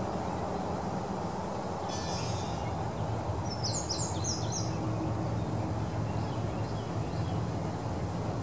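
Outdoor ambience: a steady low background rumble with birds calling over it, one short buzzy call about two seconds in and a quick run of high chirps around four seconds in.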